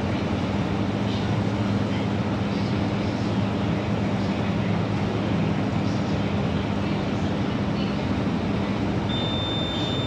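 Microwave oven running with a steady hum, which cuts off about nine seconds in as the cooking timer ends, followed at once by a long high-pitched beep signalling that the set time is finished.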